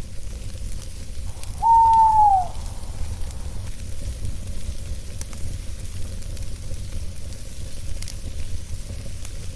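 Campfire crackling over a low steady rumble, with a single owl hoot about a second and a half in, held level and then falling away at its end.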